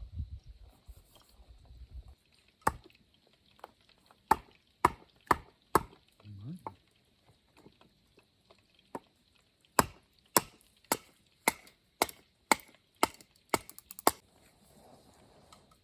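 Firewood being chopped with a hatchet: a run of sharp strikes about two a second, a pause, then a longer run ending in a quick flurry of lighter blows.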